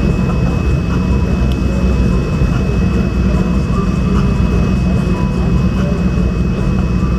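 Motorcycle engines running with a steady low rumble, a thin steady high tone sounding over it.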